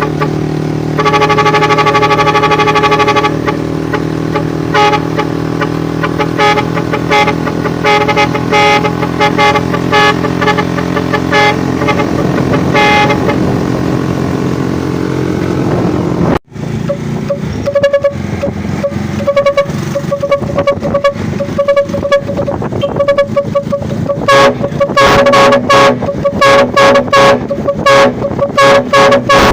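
Truck engine running with its horn sounding: one long horn blast about a second in, then a string of short toots. After an abrupt cut midway, a rapid run of short, repeated horn toots near the end.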